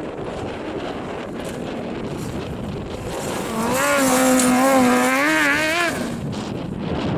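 A rally car's engine at high revs passes for about two and a half seconds in the middle, its pitch wavering with the throttle and climbing near the end. Wind buffets the microphone throughout.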